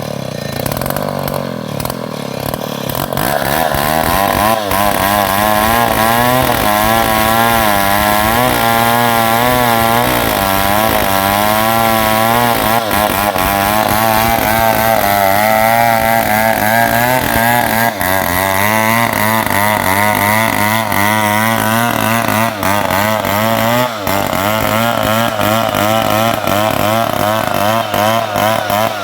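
New West 707 two-stroke chainsaw ripping a log of ulin (Bornean ironwood) lengthwise, the engine running hard under load with its pitch wavering as the chain bites. The engine speeds up and gets louder about three seconds in as the cut gets going.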